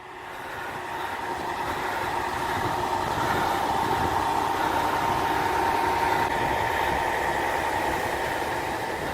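Heavy truck engines running steadily, with a held whine over the rumble. The sound fades in over the first second, then stays level.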